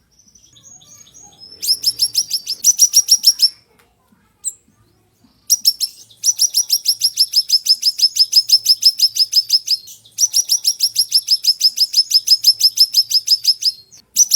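Siri-siri, a small flowerpecker kept as a songbird, singing rapid trills of sharp, high, down-slurred notes at about ten a second. The trills come in runs of two to four seconds with short breaks, the longest about four seconds, after softer twittering at the start.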